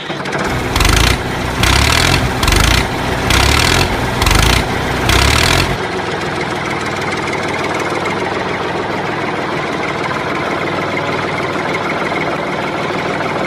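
Tractor engine surging in about seven rhythmic pulses for the first six seconds, as if straining, then settling into a steady idle.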